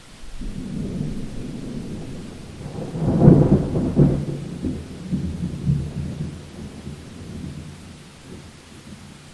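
Thunder rumbling during a rainstorm: a deep rolling rumble that builds to a loud peak about three seconds in, then slowly rolls away, with rain hissing faintly underneath.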